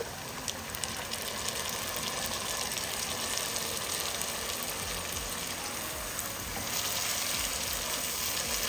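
Frying onions and spices sizzling in a pot as blended tomatoes are poured into the hot oil, with a spatula stirring them in near the end, when the sizzling grows louder.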